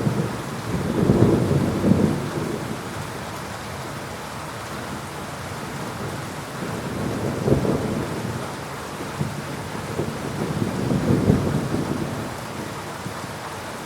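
Steady heavy rain with rolling thunder rumbling low over it, swelling three times: near the start, around the middle, and strongest again about three quarters of the way through.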